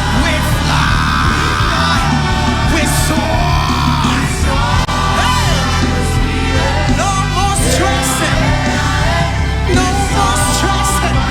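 Live worship band playing loudly, with singing and shouted vocal lines over a steady bass and drums.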